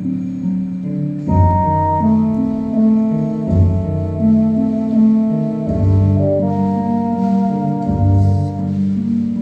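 Saxophone playing held melody notes over a backing of organ-like keyboard chords and a pulsing bass line.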